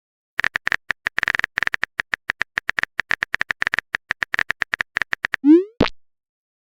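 Phone-keyboard typing sound effect: rapid, uneven key clicks, each with a short tone, for about five seconds, then a short rising 'bloop' and a click near the end, the message-sent sound of a chat app.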